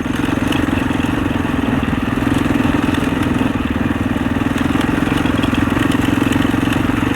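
Husaberg 650 single-cylinder four-stroke dirt bike engine running at steady revs, with a rapid even thumping note.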